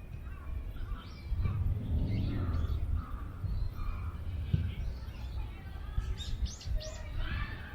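Small birds chirping and calling in short, scattered notes, over low wind rumble on the microphone that swells from about a second and a half in until around five seconds.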